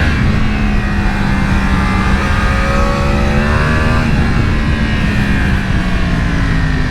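Sport motorcycle engine pulling at a steady road speed, with wind rush over it; its pitch climbs a little a few seconds in, eases off, then drops near the end as the rider rolls off.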